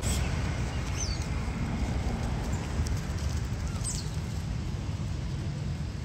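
Two brief, high-pitched squeaks from monkeys in a moving troop, about one second and four seconds in, over a steady low rumble.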